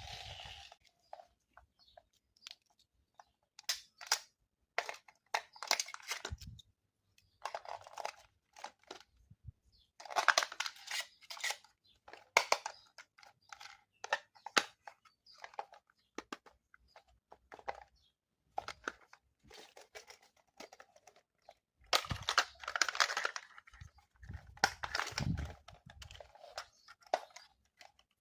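Toy packaging being handled and opened by hand: irregular plastic crinkling and tearing with scattered clicks and knocks, in bursts with short pauses between.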